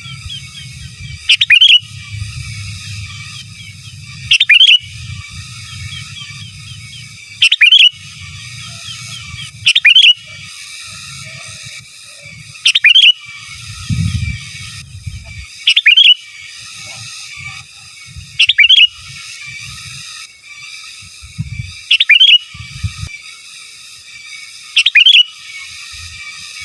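Sooty-headed bulbul (kutilang) calling loudly in energetic, fully-in-song form, a short sharp call about every three seconds over softer continuous chattering.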